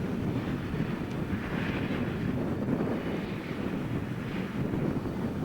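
Steady low rumble of a V100 diesel-hydraulic locomotive's engine running, with wind on the microphone.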